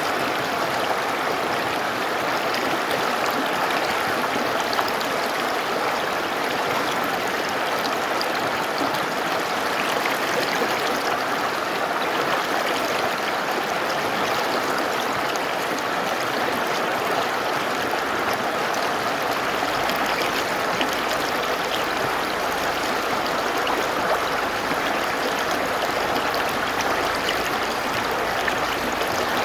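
Mountain river rushing and splashing in a steady, even flow.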